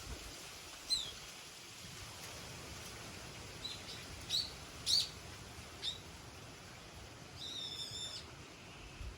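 Small songbirds calling: a few scattered short, high chirps, then a quick trill lasting under a second near the end. A faint low wind rumble runs underneath.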